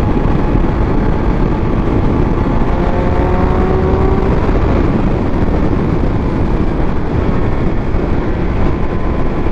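Riding a Triumph Speed Triple 1200 RS, its inline three-cylinder engine running under a steady, heavy rush of wind on the microphone. A faint engine note climbs slowly about three to four seconds in.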